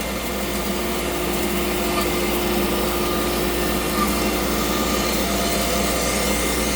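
Altmill CNC router spindle running steadily with a steady whine as its bit mills a pocket into a shaker cabinet door.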